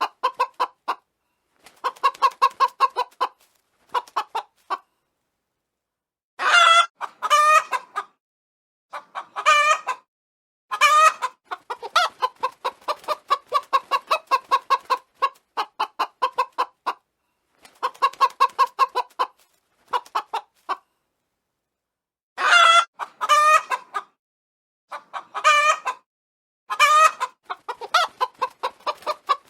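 Chickens clucking in quick runs of short notes, broken several times by louder, longer calls that rise and fall in pitch.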